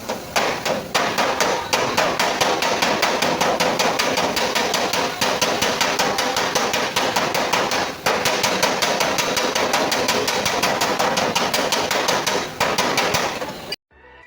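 Metal body-repair hammering on a car's sheet-metal fender panel: rapid, steady hammer strikes, several a second, with a few brief pauses. The hammering cuts off suddenly near the end.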